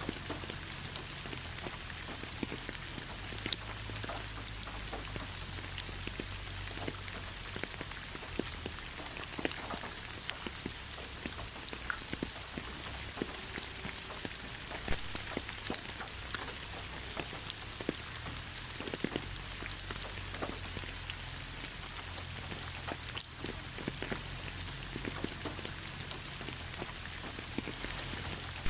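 Steady rain falling on a surface, with many distinct drops pattering close by.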